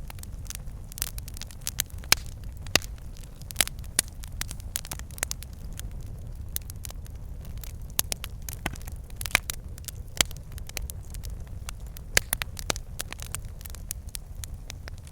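Wood fire in a fireplace crackling and popping, with irregular sharp pops over a steady low rumble of the flames.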